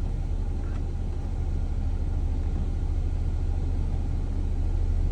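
Off-road Jeep's engine running with a steady low rumble while it crawls along a rutted, muddy trail.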